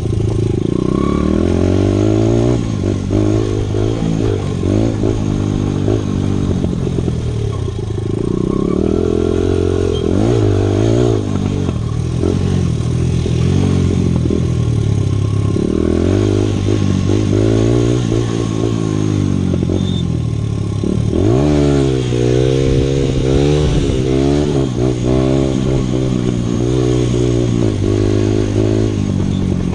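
Honda CRF100F dirt bike's small single-cylinder four-stroke engine being ridden hard, its pitch climbing under throttle and falling away again and again through the gears. About two-thirds of the way through it drops sharply, then revs up steeply in a quick series of rises.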